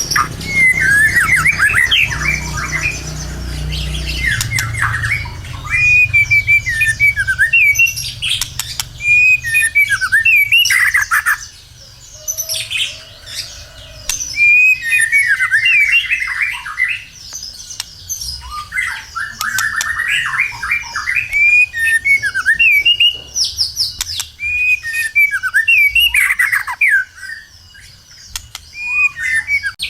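White-rumped shama (murai batu) singing loudly and continuously: long, varied phrases of rapid whistled notes and pitch glides, broken by two short pauses, one about twelve seconds in and one about twenty-six seconds in.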